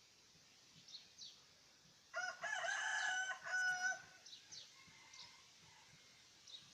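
A rooster crows once, about two seconds in, for roughly two seconds. Short, faint high chirps of small birds come and go around it.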